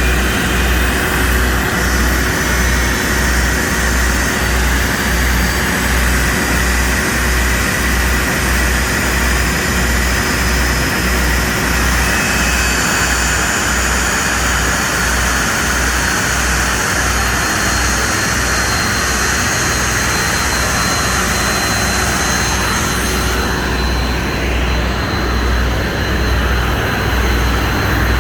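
Commercial jet aircraft engine running steadily: a loud continuous rush with high whining tones over it and a low throb pulsing a little faster than once a second. The highest hiss drops away near the end.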